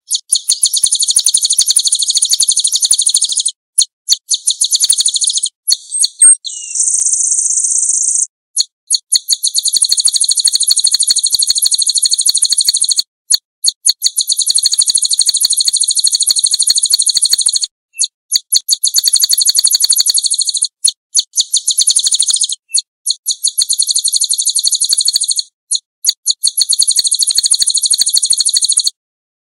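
Recorded small-songbird song from a white-eye (pleci) training track: very high, rapid trills in long phrases of several seconds, broken by short pauses, with one steadier high note about seven seconds in.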